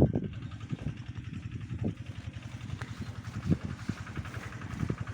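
Small engine running steadily at low speed, with a few dull knocks on top.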